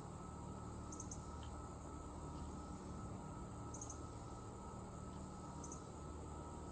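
Outdoor insect chorus: a steady high trill, with a short, high triple chirp repeating about every two seconds over a low background hum.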